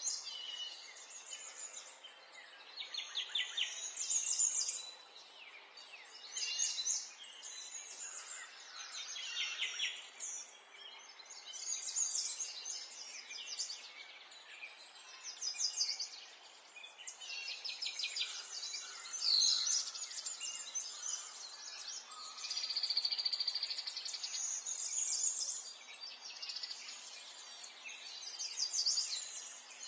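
Several birds singing at once, a dense chorus of overlapping chirps and fast trills that swell and fade every few seconds.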